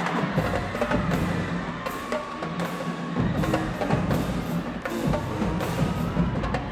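Marching band playing: the drumline's snares and bass drums beat a steady rhythm under held brass notes.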